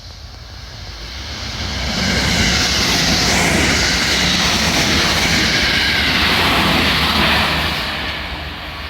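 A vehicle passing by: a loud rushing noise that builds over the first two seconds, holds, then fades away near the end.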